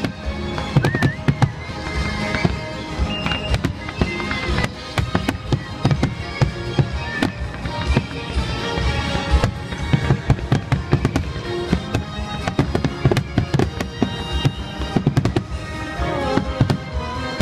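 Aerial fireworks shells launching and bursting in quick, irregular succession, many bangs overlapping, with music playing along with the show.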